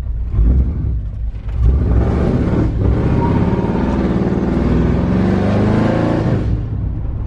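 Car engine accelerating, its pitch climbing slowly from about two seconds in, then dropping away suddenly near the end.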